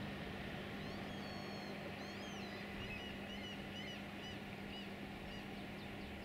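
A bird calling in a quick run of short, high chirps, a few a second, starting about a second in and dying away near the end, over a low steady hum.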